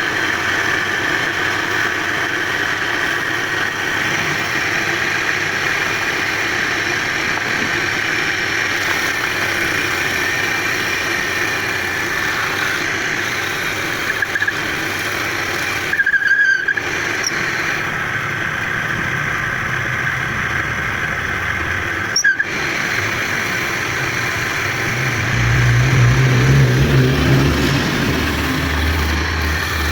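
Motor-driven wood lathe running steadily with a high squealing tone as a charpai bed leg is turned. It breaks off briefly twice, and a deeper rumble joins near the end.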